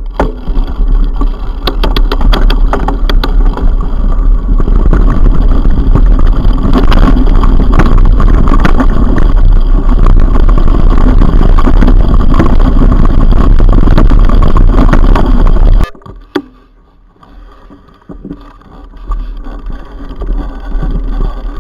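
Heavy wind rumble on an action-camera microphone during a mountain-bike ride, with many sharp knocks and rattles from the bike on rough ground. It cuts off suddenly about sixteen seconds in, leaving a much quieter stretch.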